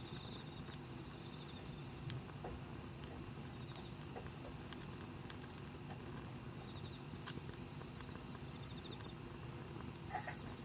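Wood campfire crackling softly with scattered small pops. A high, thin insect buzz comes in three bursts of about two seconds each.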